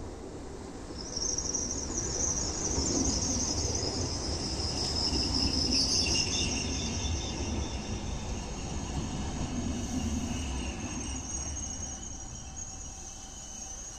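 A VR Sm2 electric multiple unit pulls into a platform and slows to a stop, giving a high-pitched squeal over a low rumble. The squeal starts about a second in, is loudest midway and fades near the end.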